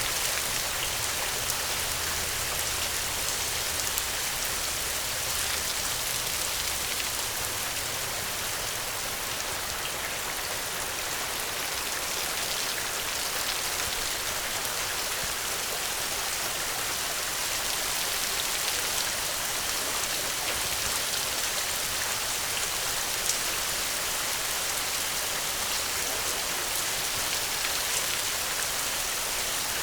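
Steady rain falling, a dense even hiss with fine scattered patter of drops on surfaces.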